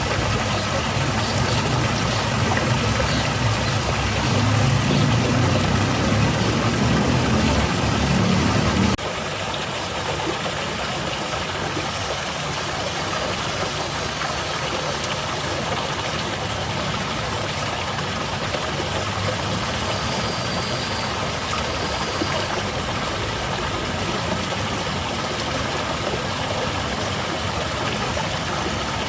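Steady rush of water falling in a small garden waterfall. A deeper low rumble under it over roughly the first third cuts off abruptly, leaving the even splashing hiss.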